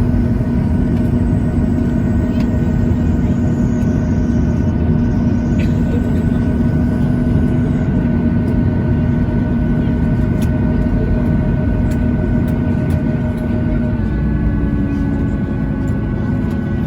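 Boeing 737-800's CFM56 jet engines running at taxi idle, heard from inside the passenger cabin: a steady rumble with several held tones. About fourteen seconds in, some of the tones change and the engine note shifts slightly.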